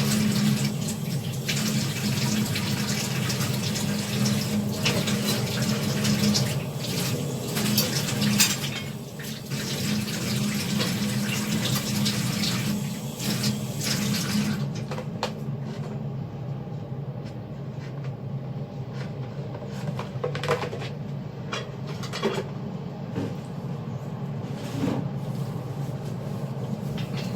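Water running from a tap into a sink, shut off about halfway through, followed by scattered light clicks and knocks. A steady low hum runs underneath.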